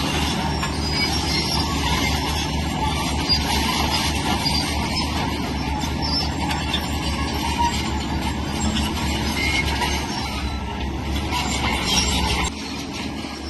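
Crawler bulldozer at work: its diesel engine running steadily with metallic rattling and squeaking from the steel tracks over it. The sound drops suddenly near the end.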